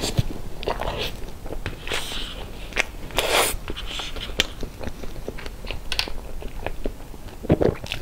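Wet chewing and lip smacking from mouthfuls of soft whipped-cream cake with fruit filling, with many short sharp clicks and scrapes of a metal fork on the foil cake board.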